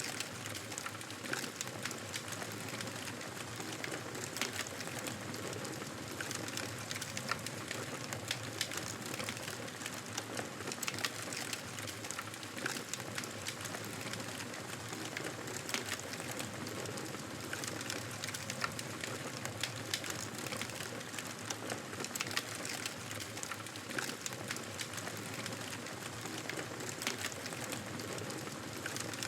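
Wood fire crackling in a fireplace: a steady hiss with many small sharp pops and snaps at irregular intervals.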